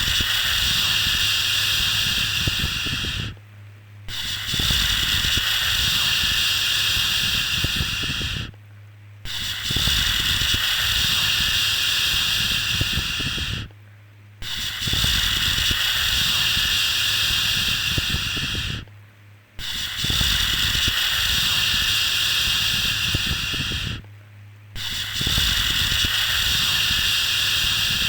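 Soothing 'shhh' shushing sound for calming a baby, repeated as long hisses of about four seconds each with short breaks between, about six in a row. A low steady hum runs underneath.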